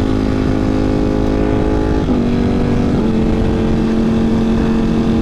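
Ducati Panigale V4 with a Competition Werkes GP race exhaust running at a steady freeway cruise, its V4 engine note holding one pitch and then stepping down a little twice, about two and three seconds in. Wind rushes past the rider's microphone underneath.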